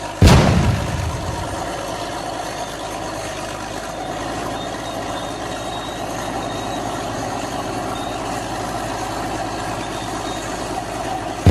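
A sudden loud thump at the start, fading into a low rumble, then a steady engine idling sound.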